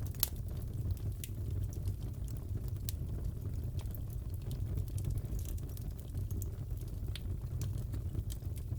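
Fireplace crackling: a steady low rumble of burning wood with scattered sharp pops and snaps, the loudest pop just after the start.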